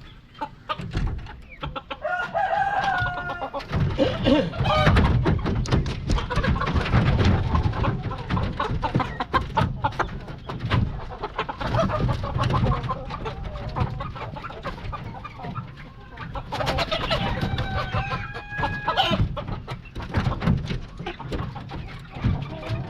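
Chickens clucking and squawking, with a rooster crowing twice, once a few seconds in and again near the end, over many short knocks and scuffs.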